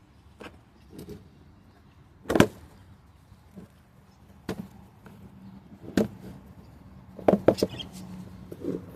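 Scattered knocks and clatters as a pet cage and its tray are handled, the loudest about two and a half seconds in and a quick run of knocks near the end.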